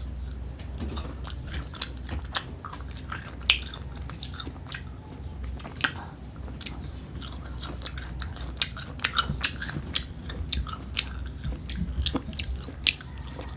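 Close-up biting and chewing of crisp unripe Carabao mango: a run of sharp, irregular crunches.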